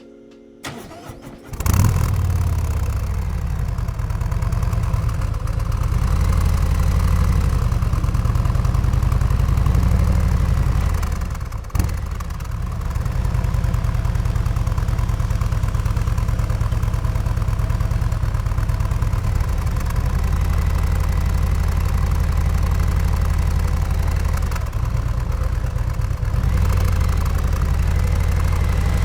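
Harley-Davidson Road Glide 3's Milwaukee-Eight 114 V-twin engine starting about a second and a half in, then idling steadily with its low, even pulse.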